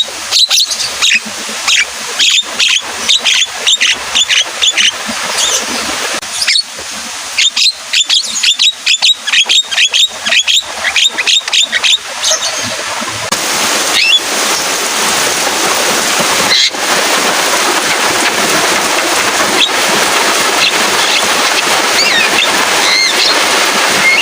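Javan myna (jalak kebo) in full song, a fast, loud run of sharp chattering notes for about the first half. It then falls to a few scattered calls over a steady hiss of rain.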